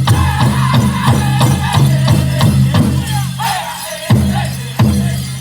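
Powwow drum group singing a chicken dance song over a big drum beaten in a fast, steady rhythm. About four seconds in, the singing drops and the drum switches to heavier strokes spaced further apart.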